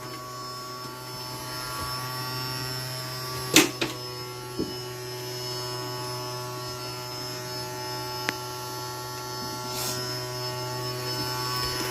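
Small vacuum cleaner motor running, a steady hum. A few knocks come about three and a half to four and a half seconds in, and one sharp click near eight seconds.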